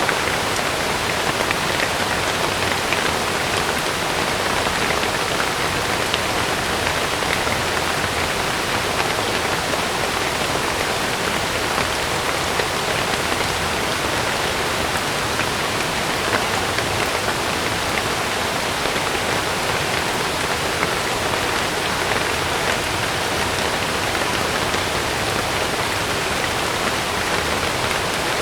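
Heavy rain falling steadily on a camping tent, with fine ticks of single drops through an even hiss.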